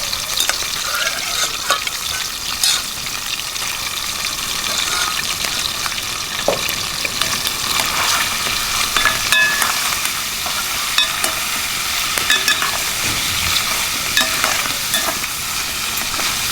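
Food sizzling in hot oil in a cooking pot, with scattered clicks and scrapes of a spoon or ladle stirring it.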